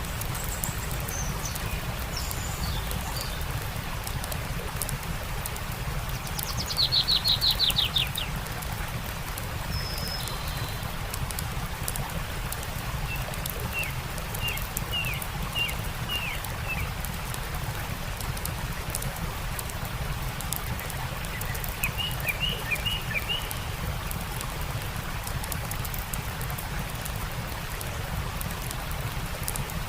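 Songbirds chirping and trilling over the steady rush of a stream, with small crackles from a campfire. The loudest call is a fast trill about seven seconds in, and short runs of chirps come midway and again later.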